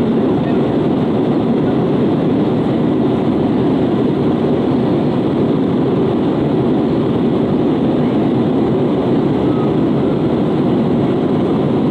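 Steady engine and airflow noise inside the cabin of an Airbus A320-232 airliner, an even low rush with no change in level.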